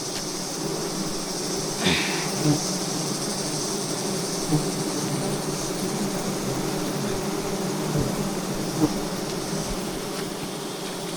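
Swarm of giant honey bees buzzing steadily around their exposed comb, with a few brief knocks about two, four and nine seconds in.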